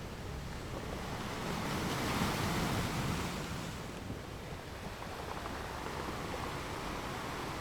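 Ocean waves washing on a beach: a steady rush of surf that swells slightly and eases, with some wind.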